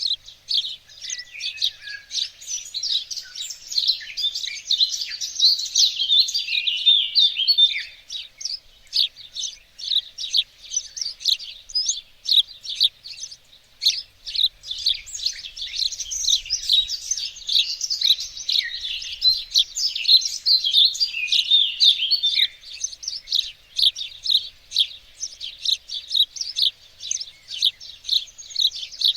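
Several small songbirds singing and chirping at once, a dense chorus of high, rapid chirps and trills. Around the middle the song thins to a run of quick separate chirps before the full chorus returns.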